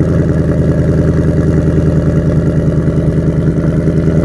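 Ford Mustang GT's 5.0-litre naturally aspirated V8 idling steadily through its factory quad-tip exhaust, a loud, even rumble.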